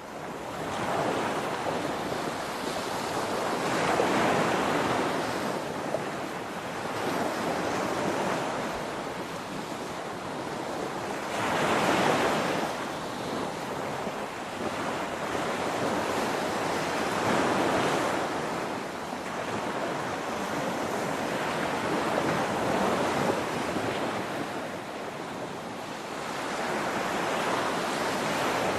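Ocean waves breaking on a shore, a steady rush of surf that swells and falls back every few seconds, with the loudest break about twelve seconds in.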